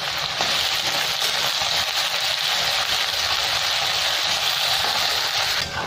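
Sliced onions sizzling steadily in very hot oil in a kadai, being stirred with a spatula.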